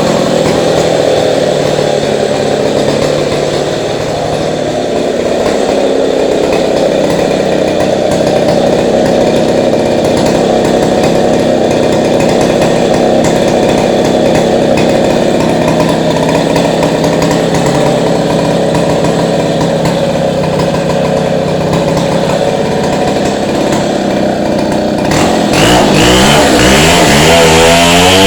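Two-stroke chainsaw running steadily under load, cutting into a masonry wall. About 25 seconds in, its engine starts to rise and fall in pitch over and over, revving in and out of the cut.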